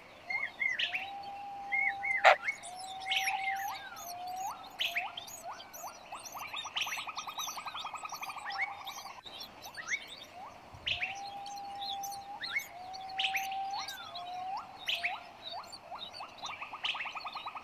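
Bird calls and chirps: steady whistled notes, quick upswept chirps and a fast buzzy trill, the same sequence repeating about every nine seconds.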